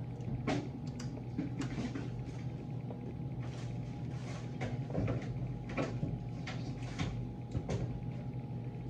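Light clicks and knocks of kitchen containers and utensils being handled and set down, a dozen or so scattered through, over a steady low hum.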